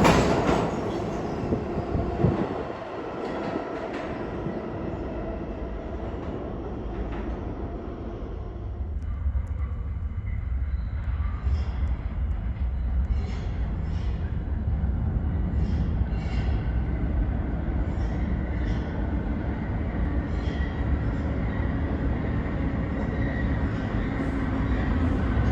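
New York City subway train noise in an underground station. A loud train sound dies away over the first few seconds. A steady low rumble follows, with faint high clicks, and it grows slowly louder toward the end.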